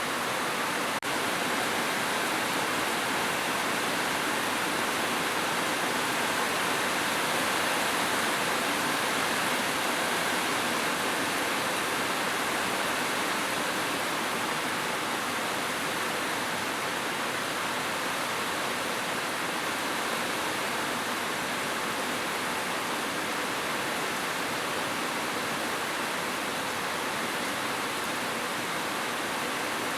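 Heavy downpour drumming steadily on a roof as an even rushing hiss, with a brief click about a second in.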